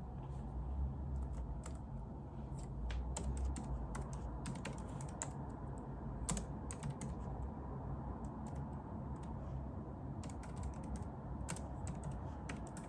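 Typing on a computer keyboard: irregular runs of light key clicks, some in quick clusters, over a steady low background hum.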